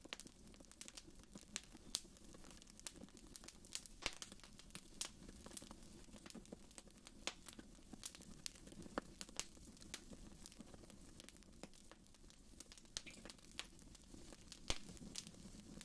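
Fire in a fireplace crackling: a steady stream of irregular small pops and snaps, with one louder pop near the end.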